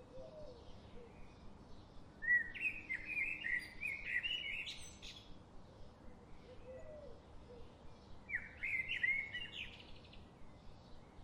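Forest birdsong: a run of quick, bending chirps and warbles about two seconds in, and a shorter one about eight seconds in, with fainter calls between them over a steady low background hiss.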